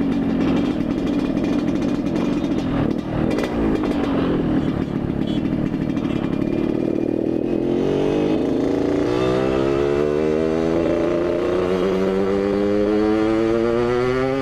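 Yamaha RX-King two-stroke single-cylinder motorcycle engine running under way; about halfway through it accelerates, its pitch climbing steadily through to the end.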